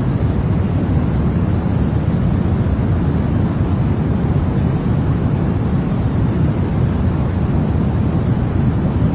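Continuous sleep noise for babies: an even, unbroken rushing hiss, weighted deep in the bass with much less at the top, more like a low rumble than a bright hiss. It does not change at all.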